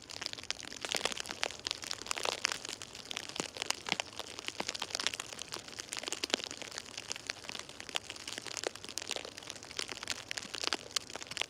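Snow crackling and crunching: a dense, irregular run of small crisp ticks.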